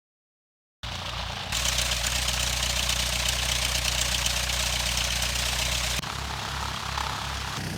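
After a brief silence, a Cessna 152's four-cylinder piston engine and propeller running steadily at low taxi power, with a loud rushing hiss from about a second and a half in. About six seconds in, the sound switches abruptly to a quieter, more uneven engine note.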